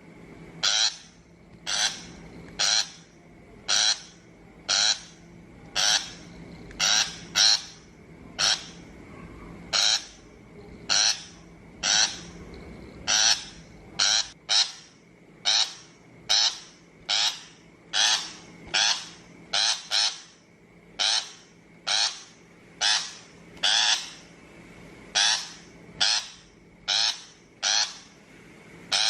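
Shrike giving short, harsh, rasping calls repeated about once a second, the grating chatter used as a lure call for trapping shrikes.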